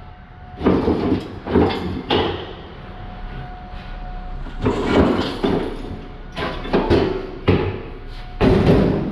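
Heavy cast-iron brake rotors clanking against one another as they are handled and dropped onto a pile: about a dozen irregular metal knocks, some leaving a short ringing tone.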